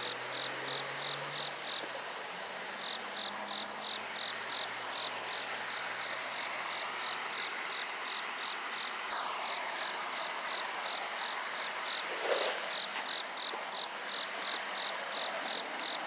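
Insect chirping in a steady, even rhythm of about three or four high pulses a second, with a brief louder sound about twelve seconds in.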